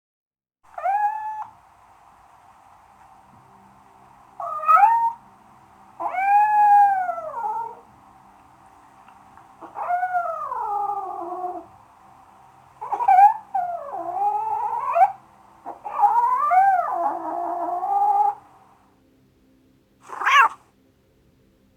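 A cat meowing again and again, about eight drawn-out meows that rise and fall in pitch, with the last one short.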